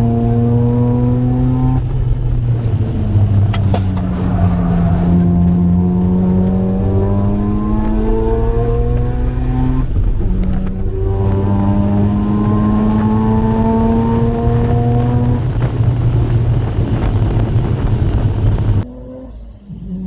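Single-turbo 13B rotary engine of a Mazda RX-7 FD3S under hard acceleration on track: its note climbs steadily through long pulls, breaks at a gear change about ten seconds in and climbs again, with a faint high whistle rising alongside. The sound cuts off abruptly near the end.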